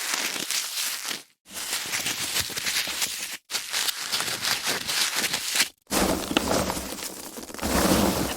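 Foam packaging being handled: dense crackling and rubbing noise, in several short takes, with a brief abrupt silence between takes three times.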